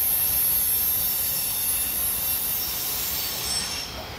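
Rear cars of a mixed freight train rolling away on curved track: a steady rumble with high-pitched wheel squeal that fades out near the end.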